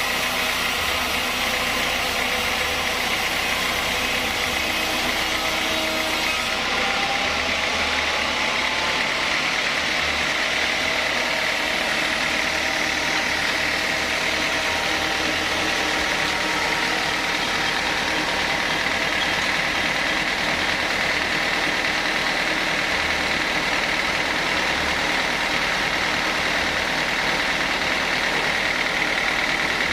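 Sawmill saw running steadily with an even machine noise. The highest hiss drops off about six seconds in.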